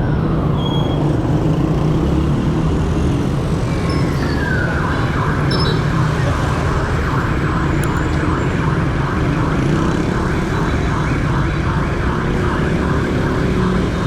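Dense motorcycle traffic, engines running steadily underneath. About four seconds in, a siren sweeps down in pitch and then warbles rapidly, about three times a second.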